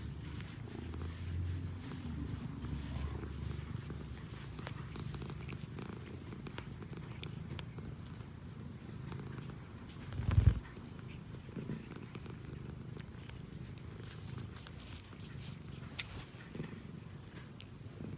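Domestic cat purring, a low steady rumble, with a single thump about ten seconds in.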